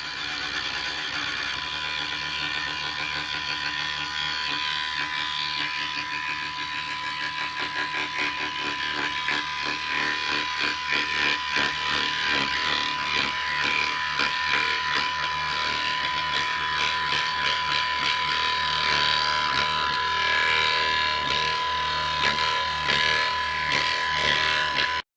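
CNC router spindle turning a 32 mm surfacing cutter that is facing a workpiece: a steady high whine over a dense, chattering cutting noise that grows louder through the second half and cuts off suddenly at the end.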